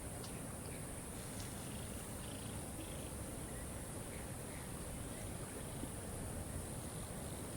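Steady rushing of a waterfall, with a few faint, short bird chirps in the first half.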